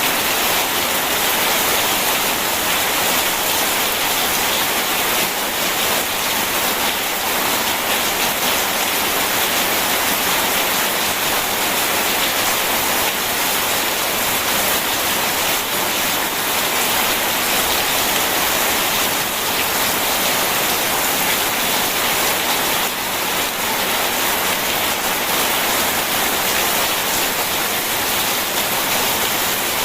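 Rain and a rushing river blended into a steady, even hiss of water, with no thunder.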